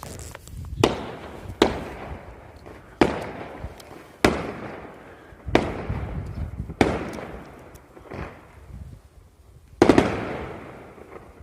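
Fireworks exploding in a string of sharp bangs, about one every second or so, each trailing off in a rumbling echo; the loudest bang comes near the end.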